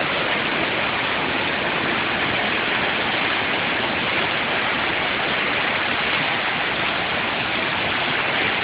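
Steady, even rushing of rainwater.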